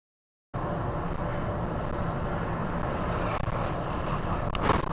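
Road and engine noise of a car driving, picked up by a dashcam's microphone, starting abruptly about half a second in after dead silence; a short sharp knock comes near the end.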